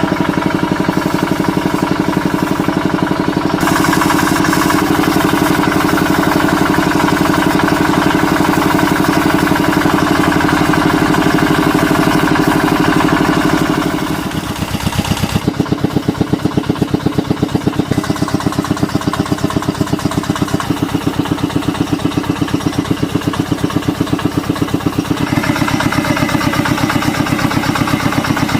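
A small engine running steadily with an even, rapid pulse. Its load or speed shifts a few times: it changes about three seconds in, dips briefly about halfway through, and changes again near the end.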